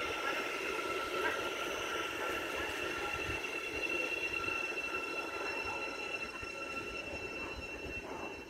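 A train passing on the line: steady rolling rush with two steady high-pitched tones over it, slowly fading toward the end.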